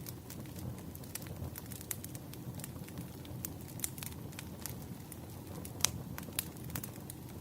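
Burning firewood crackling: irregular sharp snaps and pops, several a second, with one louder pop near the end, over a low steady rumble.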